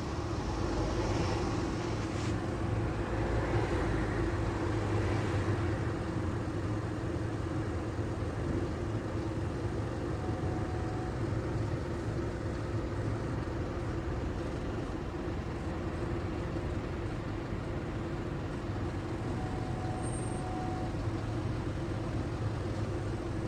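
Steady hum of a car engine idling, heard from inside the car while it waits in a traffic queue.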